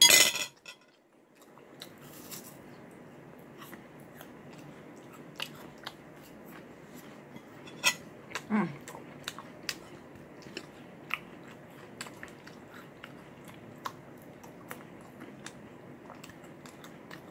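A person chewing food close to the microphone: scattered short wet clicks and smacks over a steady background hiss, with one brief hummed sound sliding down in pitch about halfway through.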